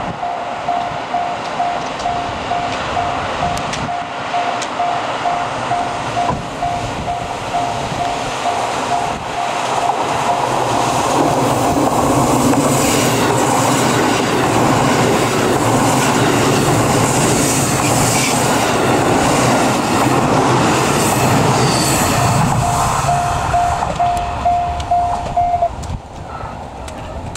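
A Japanese level-crossing alarm rings in a steady, rapid ding-ding pulse while a KiHa 85 series diesel express train passes close by, its engines and wheels loud for about twelve seconds. The crossing alarm is heard again as the train goes away, then stops abruptly near the end.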